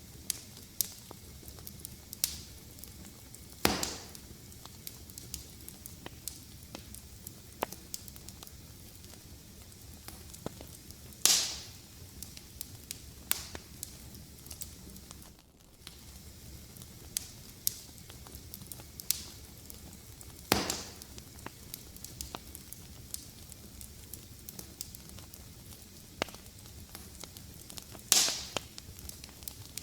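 A wood fire crackling: a steady low hiss with many small snaps, and four louder pops about every eight seconds.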